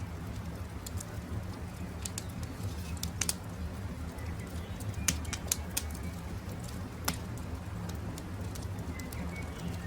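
Wood campfire crackling, with irregular sharp pops over a steady low rumble, and a few faint bird chirps, the clearest about five and nine seconds in.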